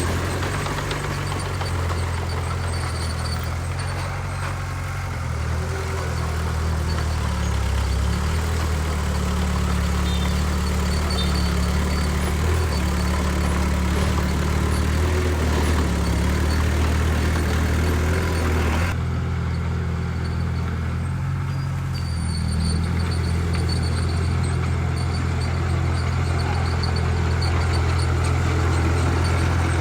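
Heavy diesel engine of earthmoving machinery running steadily with a low, deep drone; the higher hiss and clatter drop away abruptly about two-thirds of the way through.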